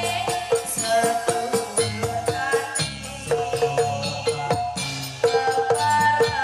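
Live campursari music for a jaranan dance: sustained melodic notes over a steady beat of percussion strikes, with rattling percussion.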